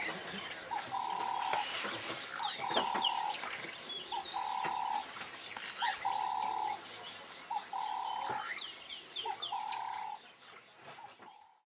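Wild birds chirping and calling, with one steady mid-pitched call repeated about every second and a half. The sound cuts off just before the end.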